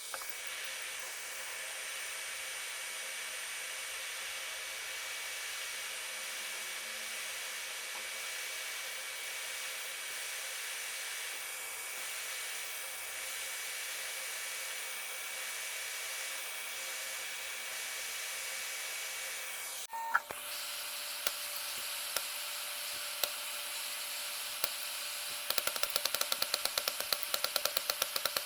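Steady hiss of a small electric blower with a thin whine over it. The sound changes abruptly about two-thirds of the way through, and near the end rapid, even clicking joins it.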